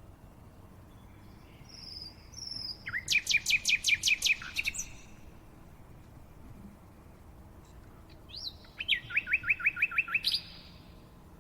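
Songbird singing two similar phrases a few seconds apart, each a few short introductory notes followed by a fast series of about eight to ten repeated notes.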